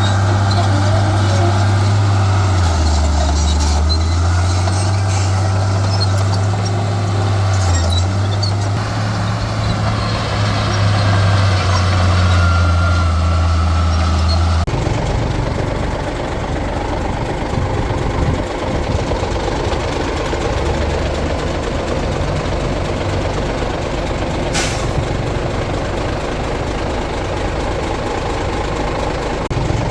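Heavy diesel earthmoving machinery running: a deep, steady engine hum that drops and rises in pitch a few times. About halfway through the sound changes abruptly to a rougher, lower rumble. A brief hiss, like an air-brake release, comes later on.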